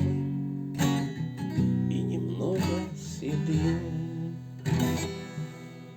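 Acoustic guitar strumming the closing chords of a song, a last chord struck near the end and ringing away as the sound fades down.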